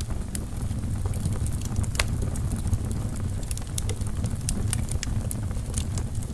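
Wood fire burning in a fireplace: a steady low rumble of flame with irregular sharp crackles and pops of burning logs, one louder pop about two seconds in.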